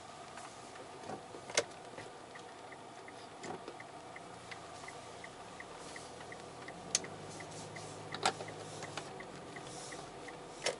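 A faint, regular ticking, about three ticks a second, with a few sharper clicks between the ticks and a low hum that comes in about four seconds in.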